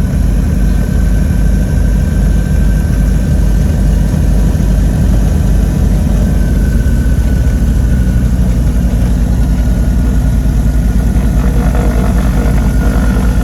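Twin piston engines and propellers of a Cessna 310-K droning steadily inside the cockpit, with a regular throb in the low drone.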